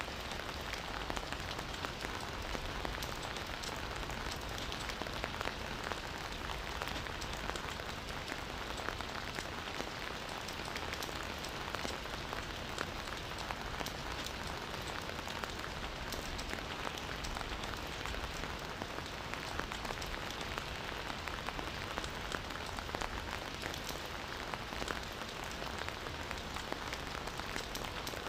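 Steady rain falling, many fine drops pattering on surfaces without letting up.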